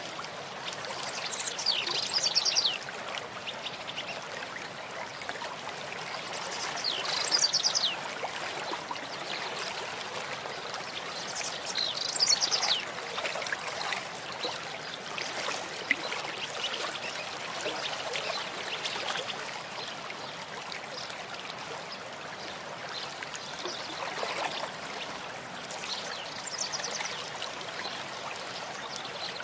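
A stream running steadily, with a bird calling several times over it in short bursts of quick, high notes.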